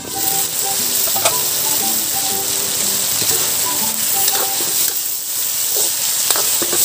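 Chicken pieces sizzling in hot oil with garlic, onion and ginger in a wok, stirred with a metal ladle that clicks against the pan a few times. Light background music with a melody plays underneath.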